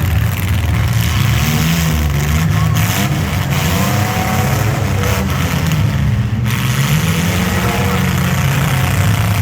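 Engines of mini trucks, vans and SUVs running and revving in a demolition derby heat, a loud, steady low rumble with a few rising and falling revs.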